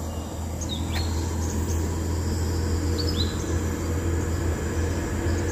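A steady low rumble with a few short, high bird chirps about a second in and again around three seconds in.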